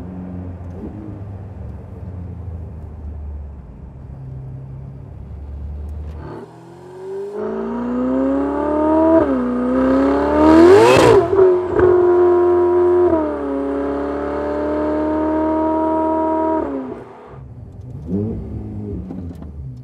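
Stock-exhaust Ferrari 488 Pista twin-turbo V8. For the first six seconds it runs with a low steady drone at an easy cruise; then it accelerates hard, its pitch climbing and dropping back at upshifts, with a brief hiss near the middle. It settles to a steady cruise and falls away near the end.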